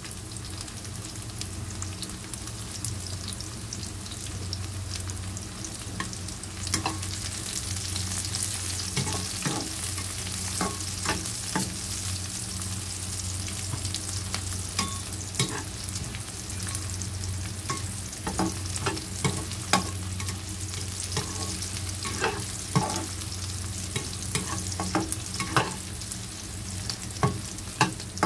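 Sliced sausage, shallots and garlic sizzling in hot oil in a wok, with a steady hiss, stirred with a metal spatula that clicks and scrapes against the pan now and then, more often after the first few seconds.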